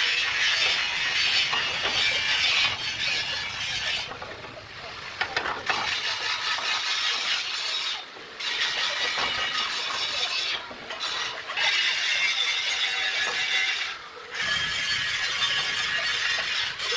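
A cutting saw running through metal: a loud, high, hissing grind that stops for a second or so about four seconds in and drops out briefly several more times.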